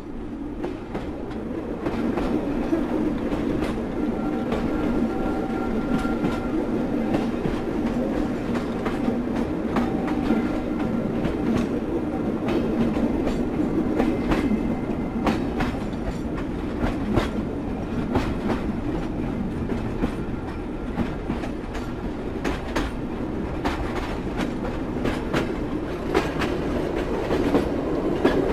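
Train running on rails: a steady rumble with the wheels clicking irregularly over rail joints, fading in over the first two seconds. A faint high whine from the wheels comes briefly about five and ten seconds in.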